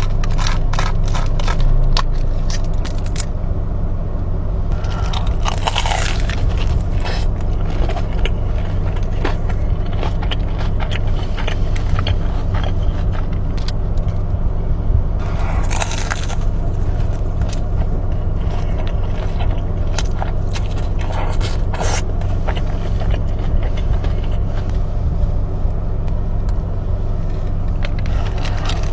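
Close-up eating: crunchy bites, chewing and scraping, with several louder crunches spread through, over the steady low hum of a car's running engine.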